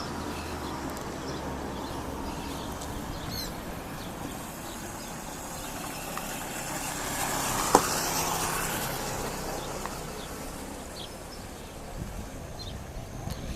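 Road vehicle noise: a low engine hum, then a broad rush of sound that builds to a peak about halfway, with a sharp click at the peak, and fades again.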